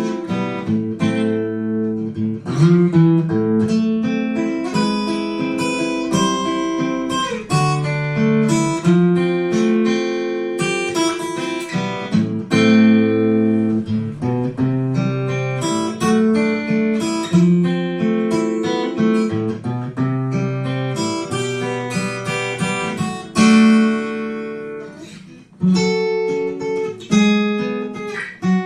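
Yamaha FGX730 steel-string acoustic-electric guitar being played: a continuous stream of plucked notes and chords, with a brief drop in volume near the end.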